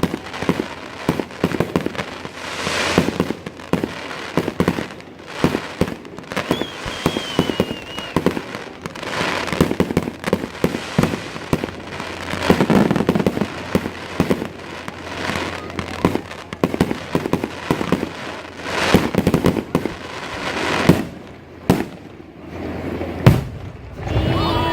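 Aerial fireworks show: shells bursting in a run of bangs and rapid crackling, coming in louder waves every few seconds.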